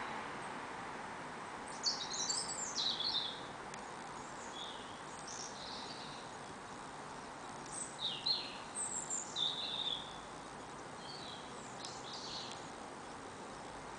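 A songbird singing a few short, high, warbling phrases, loudest about two seconds in and again about eight to ten seconds in, over a steady distant background hum.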